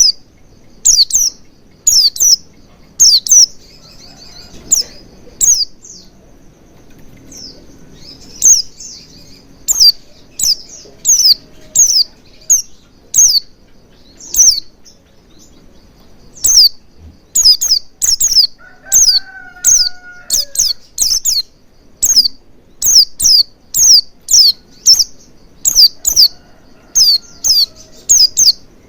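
White-eye (pleci) calling: a long series of short, high, downward-slurred chirps, about one or two a second, with brief pauses between runs.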